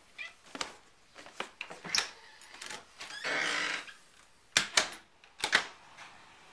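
A house door being worked: a run of clicks and knocks from the latch and handle, a short rush of noise as the door swings a little over three seconds in, then two loud sharp clacks.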